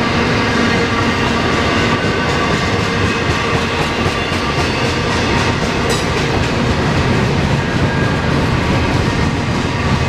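Double-stack container cars of a freight train rolling past close by: a steady rumble and clatter of steel wheels on rail, with a rhythmic clicking of wheels over rail joints. One sharp click comes about six seconds in.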